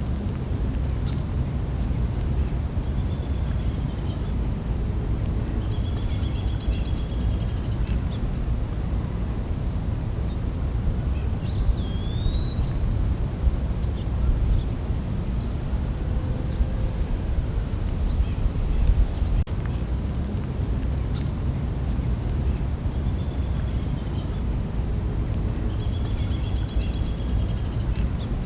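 Night insect chorus: a steady high-pitched insect drone, with crickets chirping in repeated rhythmic runs. A few short, high arched calls come twice near the start and twice near the end, with a brief sliding call in the middle. Underneath runs a steady low rumbling noise.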